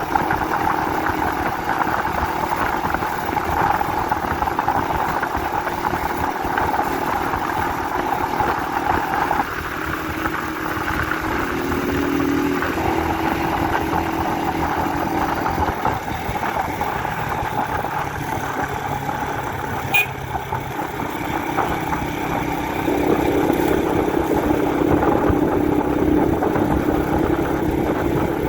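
Honda 125 CDI motorcycle's single-cylinder four-stroke engine running on the move. The engine note drops back about ten seconds in and comes up louder again about twenty-three seconds in, with one sharp click a little before that.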